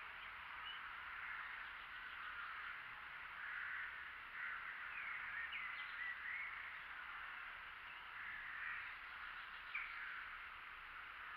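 Birds chirping and calling from the surrounding trees: short, repeated chirps over a steady background of birdsong.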